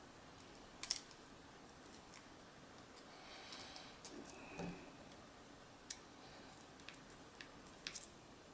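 Small tools and tiny parts of a compact camera clicking and tapping as it is worked on by hand: scattered light clicks, with sharper ones about a second in, near six seconds and near eight seconds.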